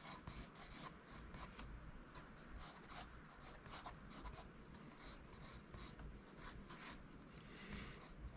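Pencil sketching on paper: a faint run of quick, short scratching strokes, a few a second.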